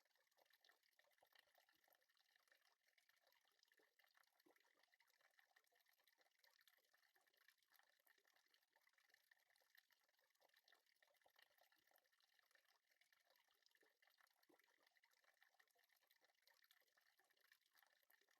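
Near silence: only a very faint, even crackling hiss.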